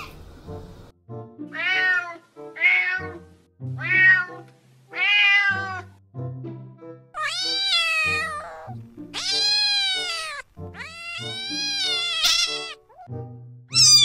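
A cat meowing over soft background music: four short meows, then three longer, drawn-out meows from about halfway through, with another starting right at the end.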